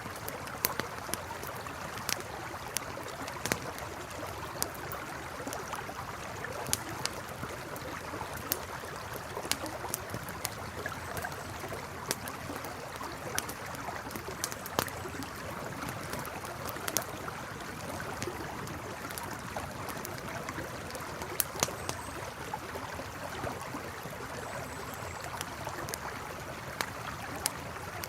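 Campfire crackling with sharp irregular pops over the steady rush of a flowing river.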